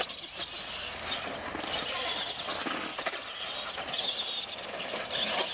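Radio-controlled monster truck driving on a dirt course: a steady motor whir and tyre scrabbling, with a few short knocks from the truck about half a second in and again around three seconds in.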